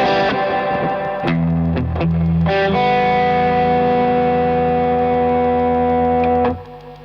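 Electric guitar played through a Madbean Drunken Dragon overdrive pedal (a Lovepedal Eternity clone), giving a distorted tone: a few chords struck, then one chord left to ring for about four seconds and cut off sharply near the end.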